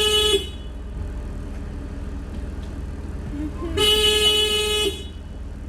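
Car horn sounding twice, a brief toot at the start and a longer one of about a second a little before the end, over a steady low rumble.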